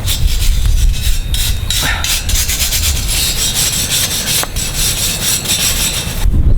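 Firewood and kindling being handled and scraped together, a dense rasping, rustling noise that cuts off abruptly near the end, over wind rumbling on the microphone.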